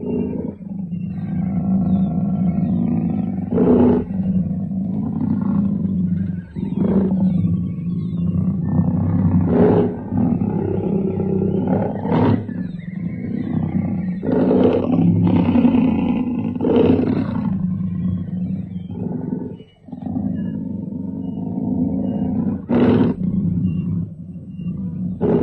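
Jaguars growling continuously, with a loud snarl or roar breaking out every few seconds.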